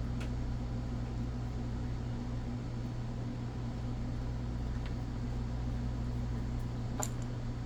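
Steady low machine hum, like a room fan or air conditioner, with a couple of faint small clicks from light handling of small parts.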